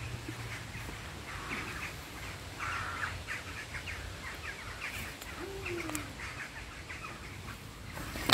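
Birds calling: a run of short calls repeated in quick succession, with one lower call gliding down in pitch about midway.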